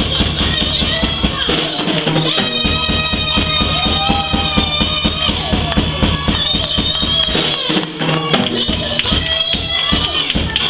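Gospel praise music played by a band: drum kit and tambourine keep a steady quick beat under long held notes.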